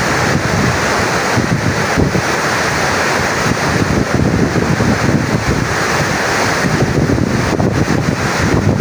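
Loud, steady rush of floodwater pouring down the Tarbela Dam service spillway, with wind buffeting the microphone.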